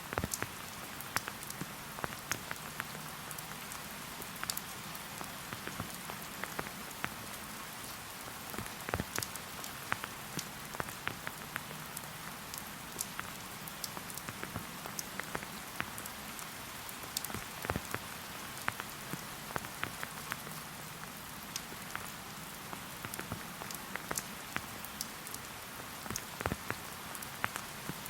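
Steady rain falling, a constant soft hiss with many separate drops ticking at irregular moments.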